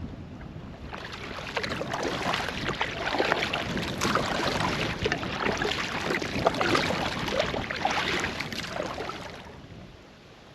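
Water splashing and gurgling around a canoe as it is paddled, swelling about a second in and fading away near the end.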